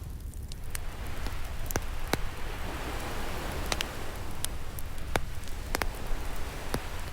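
Wood fire crackling, with a dozen or so sharp, irregular pops, over the continuous wash of ocean waves, which swells up again about a second in.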